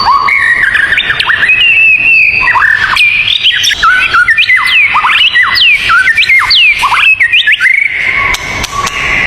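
Songbirds singing a fast, varied run of clear whistles, many of them quick falling sweeps, with some notes held steady in between.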